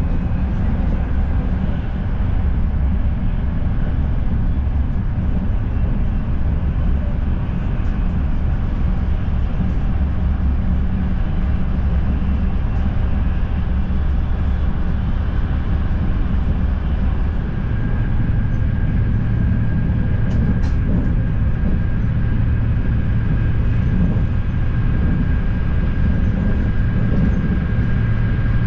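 Inside the cabin of a Frecciarossa ETR 500 high-speed electric train running at speed: a steady low rumble of the running gear on the track. About two-thirds of the way through, a steady high whine and a firmer low hum join in.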